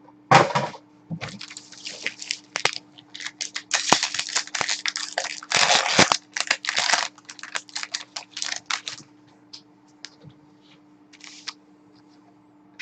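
Hockey card packaging being torn open and crinkled by hand, foil pack wrappers or box wrap ripping in irregular bursts over the first nine seconds or so.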